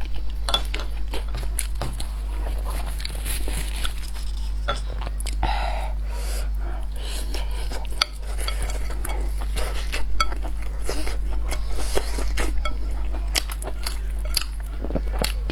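Eating sounds: utensils clicking and clinking against a bowl or plate, with chewing, over a steady low hum.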